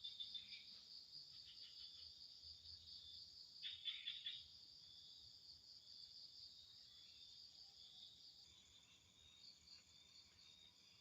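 Chorus of crickets and other insects: a steady, faint high trill, with a louder burst of rapid chirps about four seconds in.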